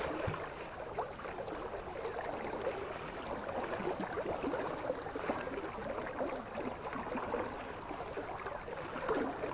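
River water running steadily, with faint small splashes and ticks.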